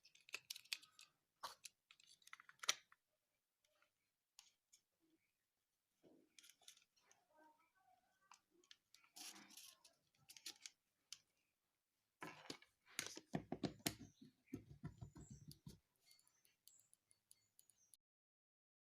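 Faint, irregular clicks and light scraping of small plastic parts being handled, with a busier run of sharper clicks and rattles near the end.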